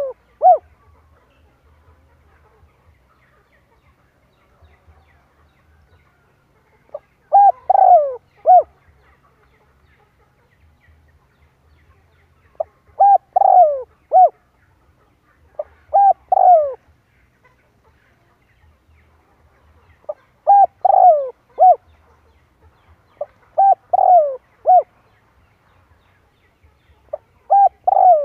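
Spotted dove cooing: a repeated phrase of three or four short coos, one of them falling in pitch, about every three to four seconds, starting several seconds in.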